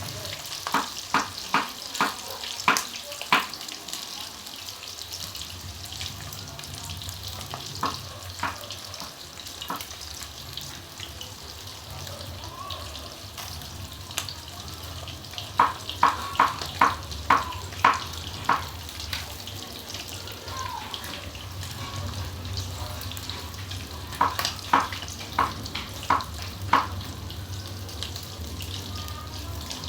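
Breaded chicken pieces frying in hot oil with a steady sizzle. Three runs of sharp taps, six or seven at a time, cut through it: at the start, about halfway through and near the end.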